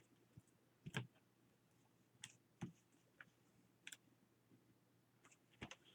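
Near silence with a few faint, scattered clicks and taps from paper cutouts and small tools handled on a work surface.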